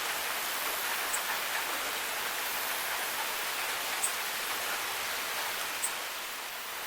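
Steady rain falling in an even hiss, with three sharp, brief ticks about one, four and six seconds in.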